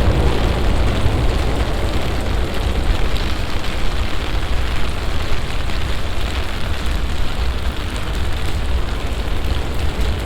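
Heavy summer downpour: a steady, dense hiss of rain with a deep rumble underneath.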